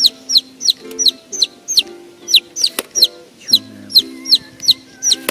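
A bird peeping with loud, sharply falling high chirps, about three a second, repeated steadily.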